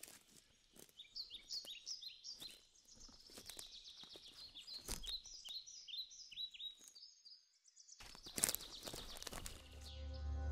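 Woodland songbirds singing: quick runs of short, high, falling chirps repeated over several seconds, with scattered sharp ticks. The sound drops to near silence about seven seconds in, a cluster of loud clicks follows, and a low music drone swells in near the end.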